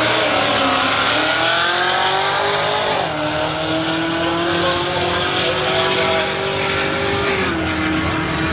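Race car engine accelerating hard. Its pitch climbs, drops sharply at an upshift about three seconds in, climbs again more slowly, and steps down once more near the end.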